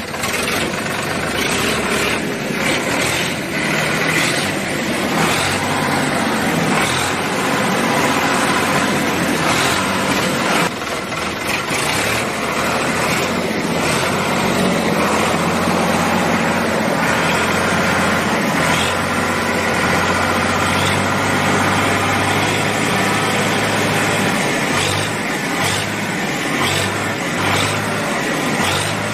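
Engine of a mini tractor running steadily, with a low hum that pulses on and off about once a second near the end.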